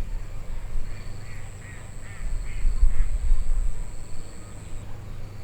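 A run of about six short animal calls over two seconds, over a low steady rumble.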